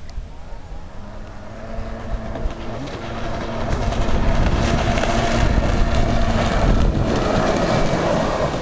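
Two-stroke engine of a 1993 Kawasaki 750SX jet ski running. It grows louder from about two seconds in, then holds at a steady high level.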